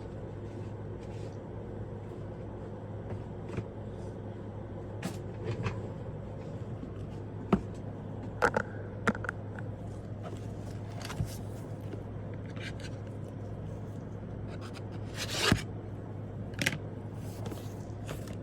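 Cardboard subscription boxes and their packaging being handled and opened: scattered clicks, knocks and scrapes, the loudest a short rustling swell about three-quarters of the way through, over a steady low hum.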